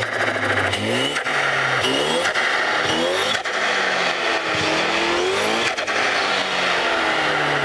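Ford Focus ST Mk3's tuned 2.0-litre turbocharged petrol four-cylinder revved repeatedly while standing. The pitch rises and falls with each blip, and the open Ramair cone air filter adds loud intake noise.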